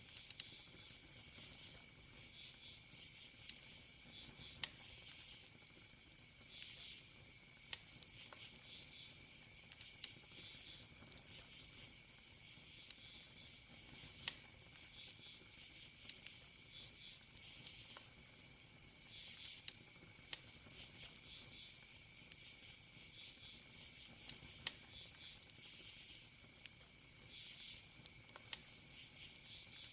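Burning wood crackling, with scattered sharp pops. Under it, crickets chirp in short repeated bursts, and a high insect trill holds steady.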